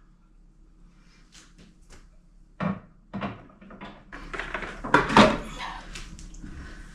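A quiet room, then two sharp knocks about two and a half and three seconds in, followed by a spell of clattering and knocking, loudest about five seconds in: kitchen items and a cupboard being handled while a cleaned microwave is put back together.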